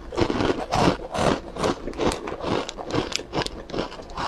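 Crisp sesame egg-roll wafer (rolled Chinese 蛋卷 biscuit) being chewed close to the microphone: a run of dry crunches, about two to three a second.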